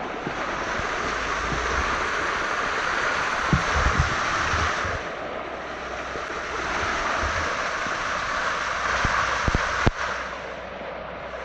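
Rushing water of a small waterfall close to the microphone, swelling and easing in waves, with scattered dull knocks and a sharp click near the end.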